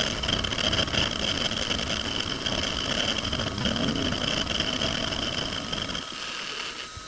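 Precision Matthews PM-25MV benchtop milling machine running and taking a facing cut on small clamp blanks: a steady machine whir with a high ringing band. It drops off and gets quieter about six seconds in.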